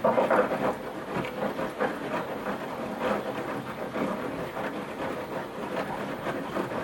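Washing machine in its wash phase: water sloshing and wet laundry tumbling in the turning drum, with uneven swishes and soft knocks every second or so.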